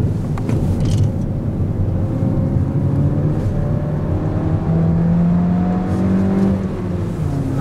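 Mini Cooper Clubman's engine heard from inside the cabin under hard driving on track. Its note climbs steadily through the revs over several seconds, then falls off near the end.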